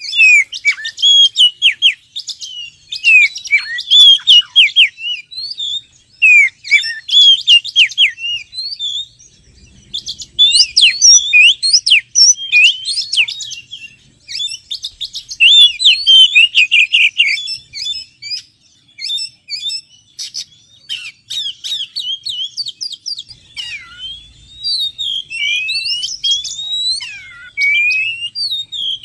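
Oriental magpie-robin song in a lure recording: bursts of fast, varied chirps and whistles with short pauses between them, turning to longer sliding whistles near the end.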